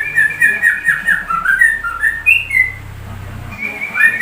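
Yellow-vented bulbul (trucuk) singing a fast run of clear whistled notes in shama-like phrases, breaking off for about a second near the three-second mark and then starting again.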